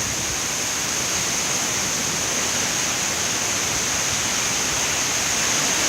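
Hurricane-force wind blowing hard and without a break, a steady rushing noise that swells slightly near the end.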